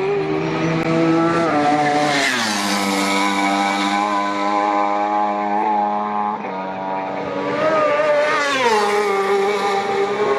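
Road-racing motorcycles passing at high speed, their engine note falling in pitch as each goes by, about two seconds in and again about eight seconds in.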